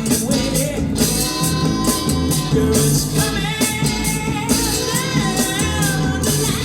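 Rock song playing: a full band with guitar and a voice singing over a steady beat.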